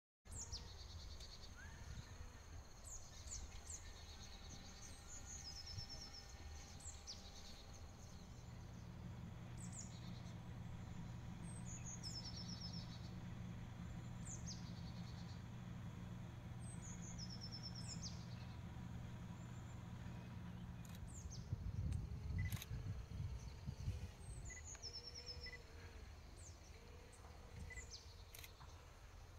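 A small songbird repeats a short high phrase every two seconds or so: a quick falling note followed by a brief trill. Under it runs a steady low outdoor rumble. A few knocks and low thuds come about three quarters of the way through.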